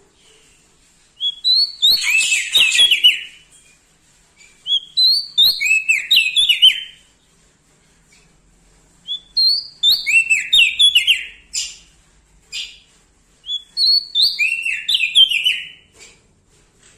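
Prenjak daun Lombok singing: four loud phrases a few seconds apart, each a quick run of clear notes stepping down in pitch.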